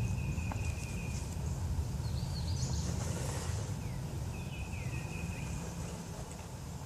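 Outdoor ambience: a steady low rumble, with a bird giving two thin, level whistled notes of about a second each, one at the start and one about halfway, and a few short higher chirps between them.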